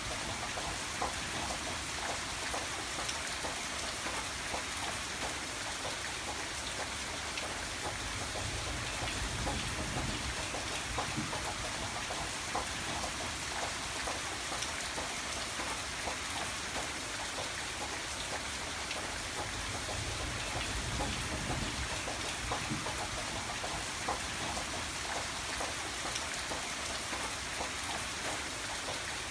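Steady rain falling and pattering on a surface, a dense even hiss with many small drop ticks, and a low rumble that swells twice.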